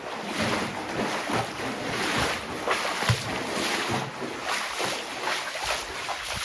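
Someone wading through water, with splashing and sloshing in steady strides about twice a second.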